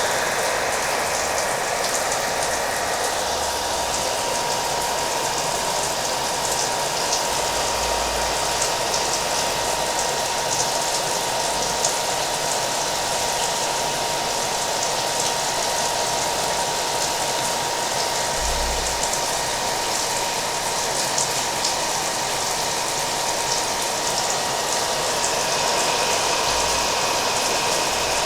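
Hair dryer running steadily with a thin, steady whine, layered with rain falling.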